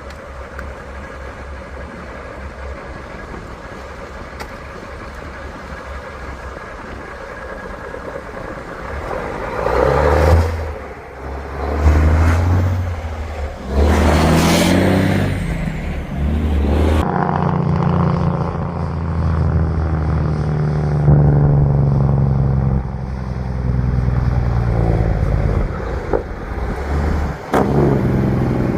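Heavy vehicle engine running and revving up and down several times, then, after an abrupt change about 17 seconds in, an engine running more steadily.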